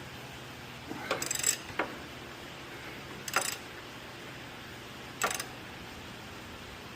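Hand ratchet wrench clicking in short bursts of strokes, with pauses between, as a bolt on a car's lower control arm is tightened.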